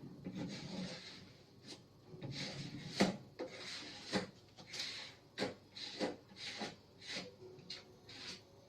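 Body filler being spread and scraped with a putty knife: repeated short scraping strokes, under two a second, with a few sharp clicks.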